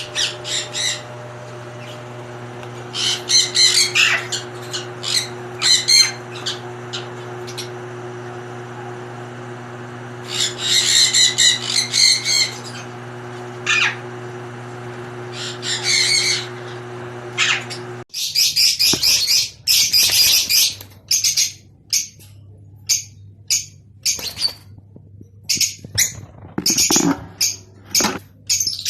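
Lovebirds calling in bursts of high, shrill chattering, each a second or two long, over a steady low hum. The hum stops about 18 seconds in, and after that the calls come shorter and in quick succession.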